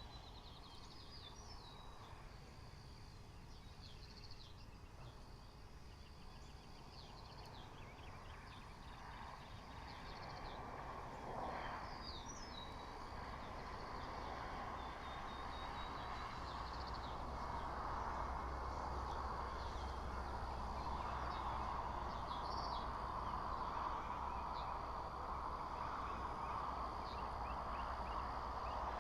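Small songbirds chirping and calling, including a couple of short rising trills, over a steady rushing background noise that grows louder from about a third of the way in.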